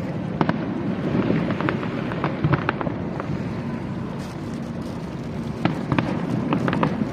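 Fireworks display going off: a continuous low rumble of bursts, overlaid with many sharp pops and crackles.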